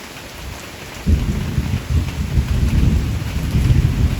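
Heavy tropical rain falling, then about a second in a loud rumble of thunder breaks in and keeps rolling with uneven swells.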